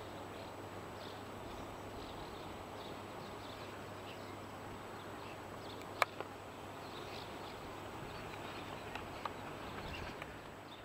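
Outdoor ambience with a steady faint background and a small bird chirping repeatedly, roughly twice a second. A single sharp click about six seconds in.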